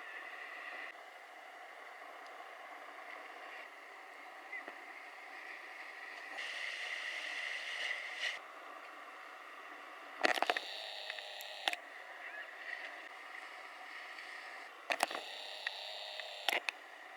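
Steady hiss of typhoon surf and wind, which swells for a couple of seconds near the middle. There are four sharp knocks in two pairs, about ten and fifteen seconds in.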